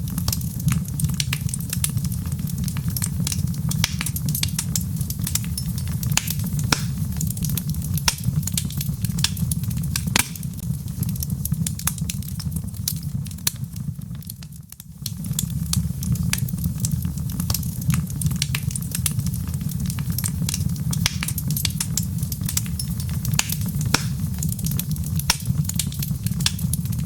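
Wood fire in a fireplace crackling, with many sharp irregular pops over a steady low rumble of flame. The sound briefly fades about halfway through, then resumes.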